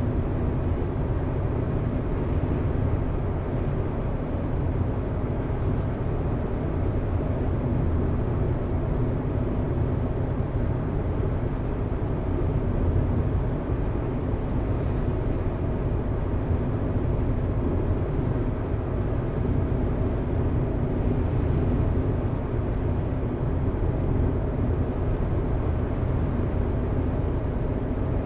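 A car driving at a steady speed: a constant low rumble of engine and tyres on the road.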